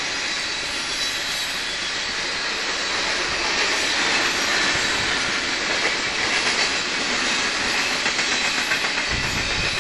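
Freight train cars rolling past close by: a steady rumble and hiss of steel wheels on rail, with rapid clicking from the wheels. A deeper low rumble comes in near the end.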